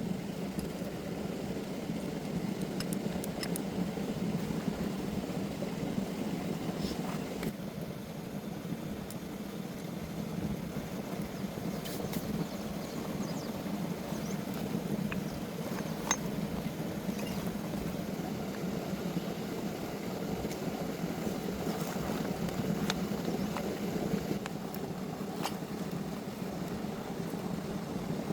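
An engine running steadily at an even idle, with a few light metallic clicks and taps scattered through.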